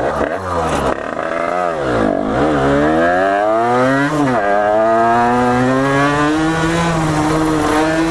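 Dirt bike engine revving. The pitch dips and rises twice, then climbs, drops sharply about four seconds in as if shifting gear, and then climbs slowly and holds steady.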